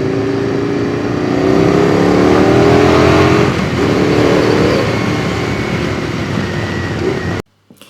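A motor-vehicle engine revving, its pitch rising twice over a rushing noise, then cutting off suddenly near the end.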